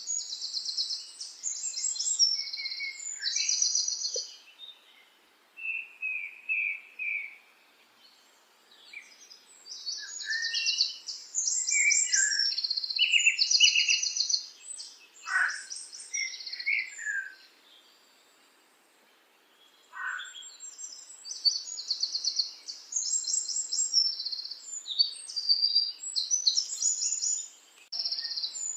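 A small songbird singing in bouts of rapid, high trilled phrases mixed with chirps, three long bouts with short pauses between them.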